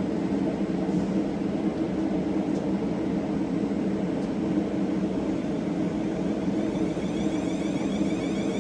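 Siemens Desiro electric train (Class 450 and Class 444 units) with a steady low electrical hum. About seven seconds in, a high whine of sweeping tones from the traction equipment starts as the train begins to move off.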